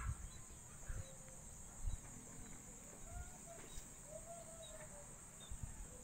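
Faint, short bird calls in the distance, a few rising-and-falling notes, with occasional low thumps on the microphone.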